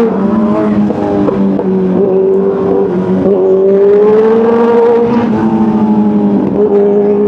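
Kawasaki superbike engine running hard at road speed, its pitch climbing and dipping several times as the throttle is worked.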